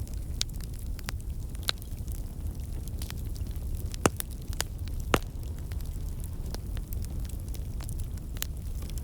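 Fireplace crackling: a steady low rumble of the fire with irregular sharp pops and snaps, two louder pops near the middle.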